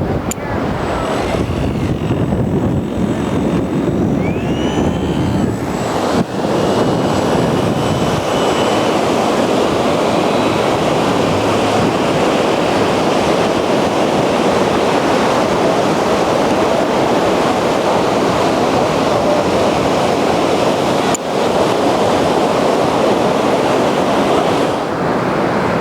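Surf and wind noise on the microphone, with the thin whine of a Parkzone Typhoon 3D RC plane's electric motor and propeller changing pitch as it flies.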